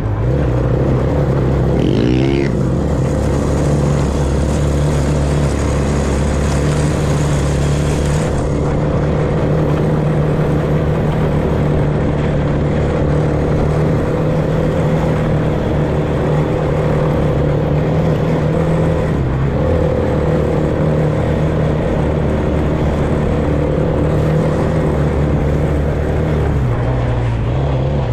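Off-road vehicle engine running steadily at a nearly constant speed while riding, with brief small dips in the engine note about two-thirds of the way through and again near the end.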